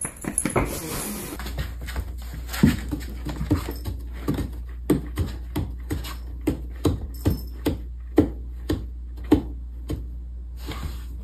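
A dog barking repeatedly in short, evenly spaced barks, about two a second, over a steady low hum; the barking stops near the end.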